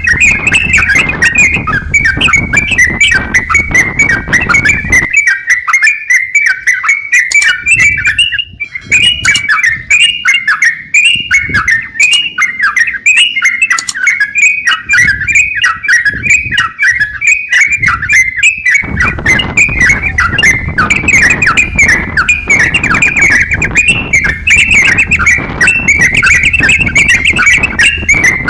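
Crokcokan (yellow-vented bulbul) singing in a fast, unbroken run of chirping notes. This is the vigorous 'gacor' song used as a tutor recording for other songbirds. A low background rumble sits under the song, except for a stretch in the middle where it drops out.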